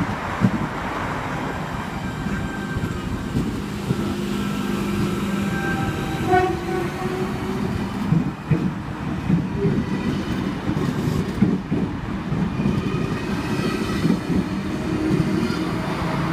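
Electric passenger train running through the station: a steady rumble carrying several held whining tones, with repeated short knocks from the wheels on the track.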